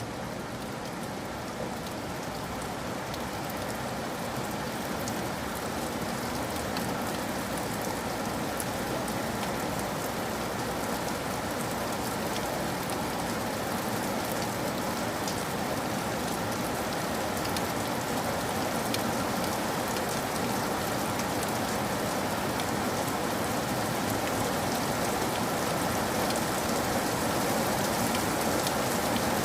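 Steady rain falling, with fine ticks of individual drops striking a surface, slowly growing louder.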